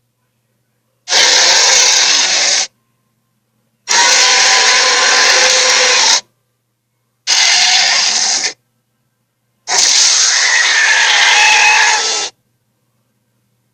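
Creature sound effects for fictional monsters: four loud, harsh roars, each one to two and a half seconds long, that start and stop abruptly with dead silence between them.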